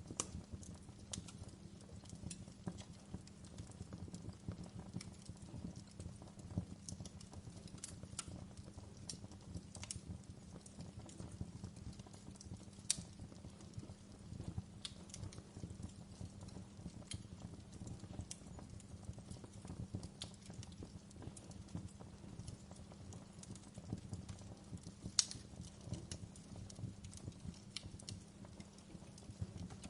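Wood fire burning in a fireplace: a steady low rumble of flames with scattered small crackles and pops, and two louder pops, one about halfway through and one near the end.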